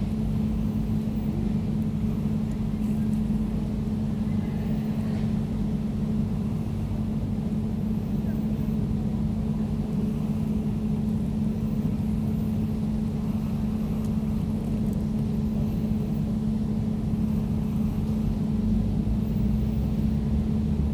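Air conditioner running steadily: an even low drone with a constant hum.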